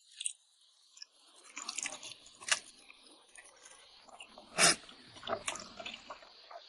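A person eating red-oil dressed rice noodles close up: wet chewing with irregular mouth smacks and clicks, the loudest smack a little past halfway.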